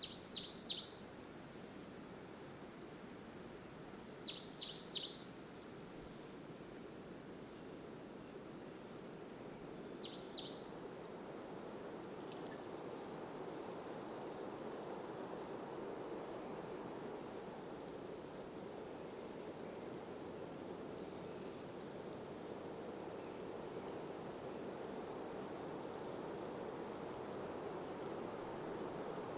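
Songbird calls: quick downward-slurred chirps in clusters of three or four, with a short high thin trill between them, then the bird falls silent. Underneath is a steady rushing noise of wind that slowly grows a little louder.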